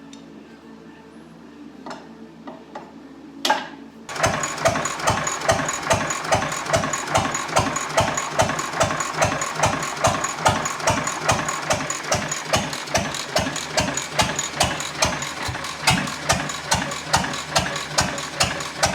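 A 6 hp International Harvester Type M single-cylinder hit-and-miss engine running, with loud, regular exhaust beats about two to three a second. The first few seconds are quiet apart from one sharp click before the engine comes in.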